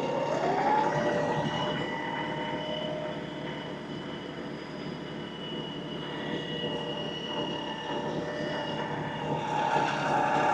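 LS XR315 compact tractor engine running steadily with a whine under working load, its pitch rising in the first second as it revs up.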